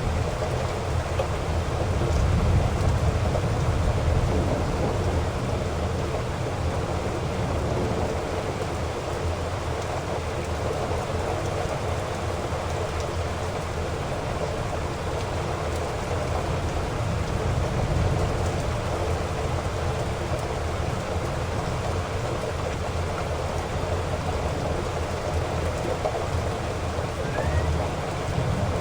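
Heavy rain falling steadily, with low rolls of thunder rumbling beneath it, strongest near the start and again a little past halfway.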